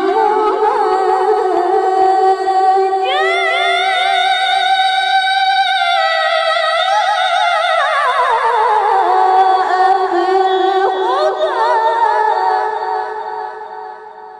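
A woman's voice reciting the Qur'an in melodic tilawah style, holding a long ornamented phrase with quick turns on each note. It steps up in pitch about three seconds in, slides back down around eight seconds, and fades out near the end.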